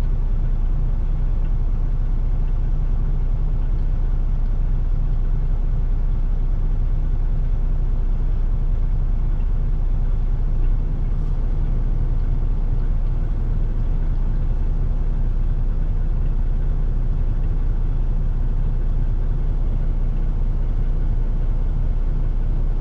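Semi-truck's diesel engine idling with a steady low rumble, heard from inside the cab.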